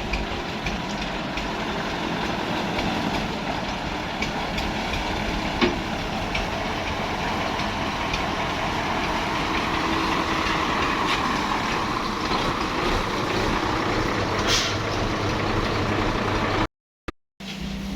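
Heavy truck running steadily under a broad rushing noise. The sound drops out abruptly near the end and comes back as a steadier low engine hum.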